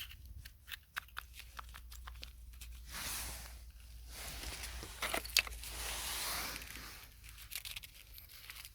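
Dry material crackling and rustling as it is handled: scattered sharp crackles at first, then two longer rustling swells, with one sharp crack about five seconds in.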